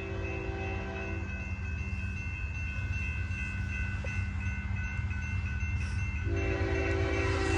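Approaching BNSF diesel freight locomotive sounding its multi-note air horn: one blast ends about a second in and the next begins near the end. Underneath, the locomotive's low rumble grows steadily louder, with a steady high-pitched ringing throughout.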